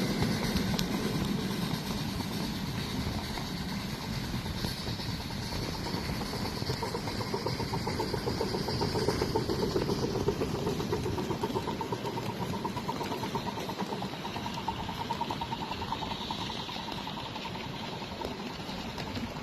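A 7.5-inch gauge ride-on miniature locomotive running on the track, with a steady rapid pulsing that swells a little toward the middle.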